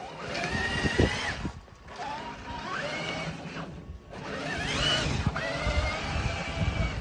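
An Axial SCX6 RC crawler's electric motor and geartrain whining in three pushes as it plows through snow. Each push rises in pitch and then holds; the last is the longest.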